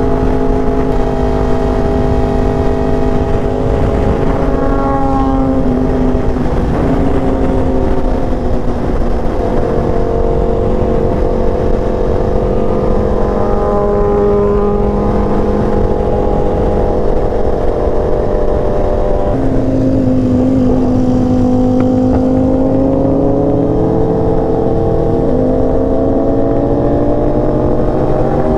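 Vehicle engine running under way, its pitch holding steady for stretches and then sliding to a new level several times as the speed changes, over a constant low rumble of road and wind noise.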